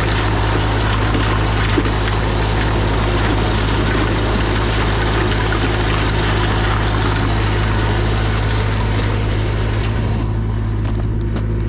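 Snowblower running steadily, a constant engine drone under a dense hiss that thins out about ten seconds in.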